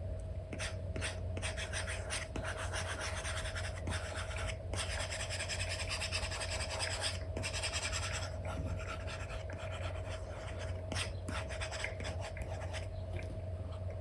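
Apple Pencil nib scratching across a paper-feel screen protector on an iPad in a run of painting strokes, some short and some a few seconds long, with brief pauses between them. A steady low hum runs underneath.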